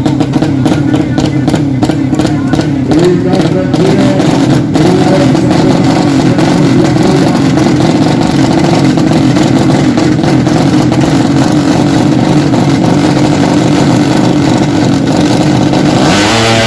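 Loud drag-racing motorcycle engines running and revving, with sharp popping in the first few seconds. Near the end, one engine's note climbs in pitch as it revs out.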